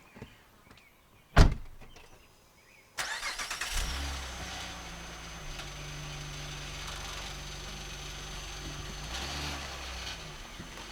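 A loud single thump, then about three seconds in a car engine cranks and catches, settling into a steady idle.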